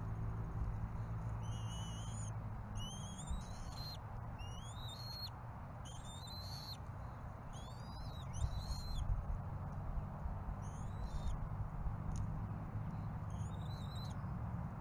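A bird calling: about ten short, high whistled chirps that glide up and down, a second or so apart, over a steady outdoor hiss.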